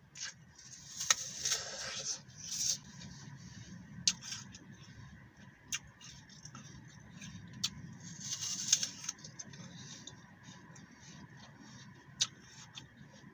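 Biting and chewing a crisp green apple: two bursts of crunching, about a second in and again around eight seconds, with scattered sharp clicks and moist chewing between them.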